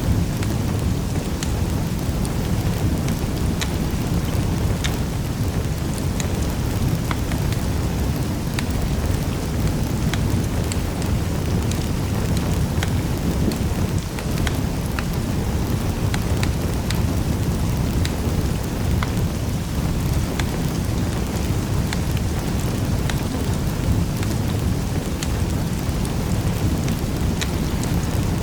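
Wood fire burning steadily with a low rumble, and frequent sharp pops and crackles from the burning logs.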